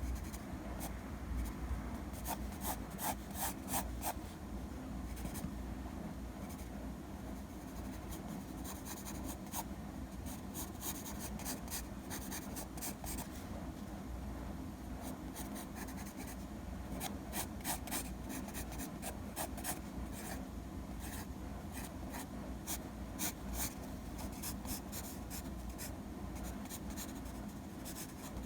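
A drawing tool scratching across a drawing surface in quick runs of short sketching strokes, over a steady low hum.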